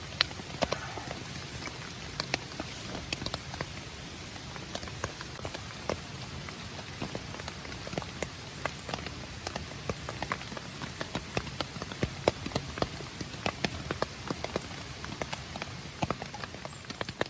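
Campfire crackling: a steady hiss with irregular sharp pops and snaps of wood burning.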